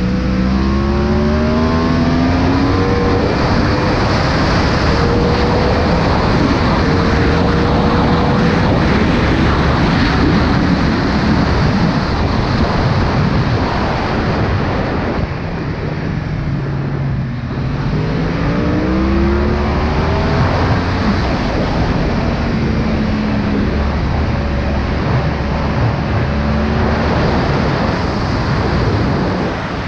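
Yamaha R1 inline-four engine at track speed, its pitch climbing hard at the start, falling a little past halfway as the bike slows, then climbing again. Heavy wind buffeting on the GoPro microphone, which has no wind protection, runs under it.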